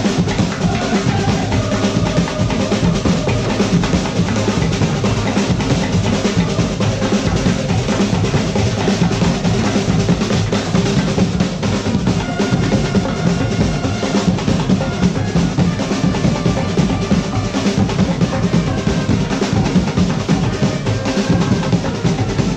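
Drum band playing: dense, steady percussion with bass drum and snare, and a few faint held pitched notes over it.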